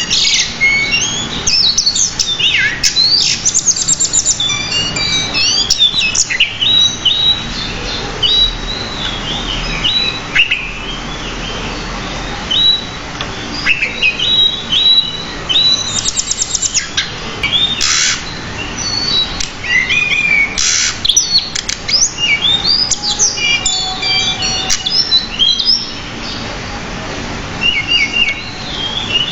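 Pied bushchat singing vigorously in a long, near-continuous run of varied quick chirps, sweeping whistles and short trills, with a few brief pauses.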